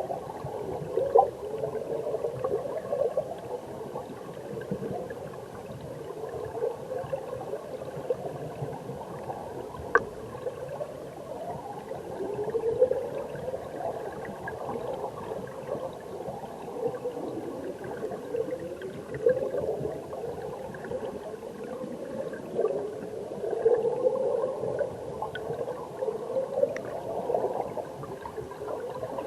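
Mountain stream heard underwater: a steady gurgle of flowing water and air bubbles, with tones that keep sweeping upward every second or two, and a few sharp ticks.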